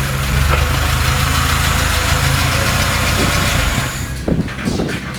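Freshly overhauled VAZ 2106 carburettor engine running steadily. The running sound drops away about four seconds in, followed by a few short knocks.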